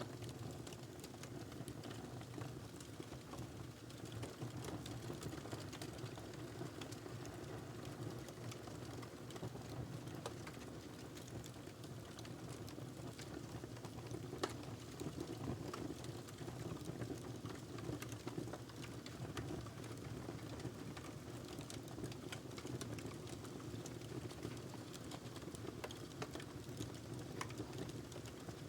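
Wood fire burning in a fireplace: a steady low rumble of flames with frequent small irregular crackles and pops, one sharper pop about halfway through.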